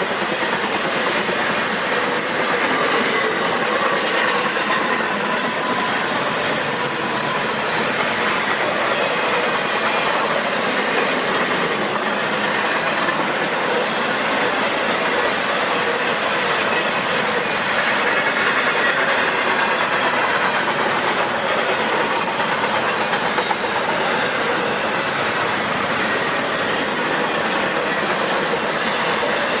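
Intermodal freight train's cars rolling steadily past, their wheels clacking over the rail joints, with a faint steady wheel squeal.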